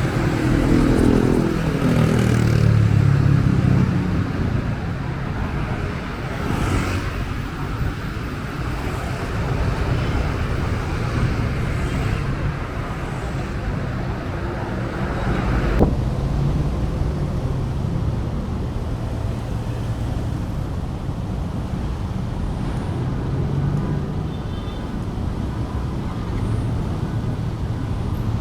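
Wind buffeting the microphone in a loud, unsteady low rumble, over road traffic. A passing vehicle falls in pitch over the first few seconds, and there is one sharp click about sixteen seconds in.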